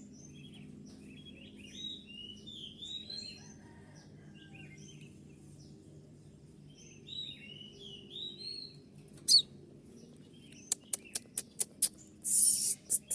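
Konin songbird calling in two short bursts of quick, curved chirping notes, then a rapid run of sharp clicking notes and a harsh hissing burst near the end.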